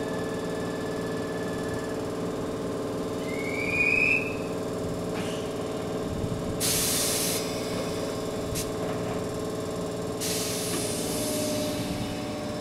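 Toyohashi Railway 1800-series electric train standing with a steady hum of onboard equipment. A short rising squeal comes about three to four seconds in. Two bursts of compressed-air hiss follow, one near seven seconds and a longer one from about ten to twelve seconds.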